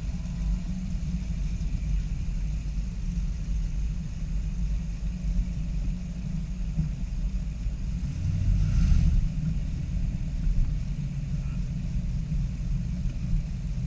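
Low rumble of a car engine running, swelling louder for a moment about two-thirds of the way through.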